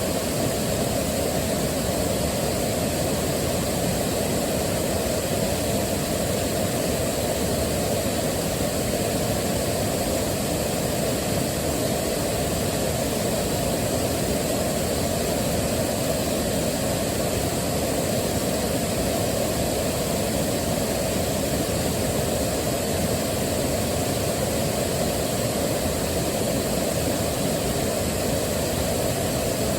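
Waterfall rushing steadily, an even deep rush heaviest in the low end and unchanging throughout.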